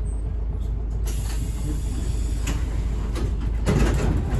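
Tokyu city bus heard from inside the cabin: steady low engine rumble, with a hiss starting suddenly about a second in and a short louder rumble near the end.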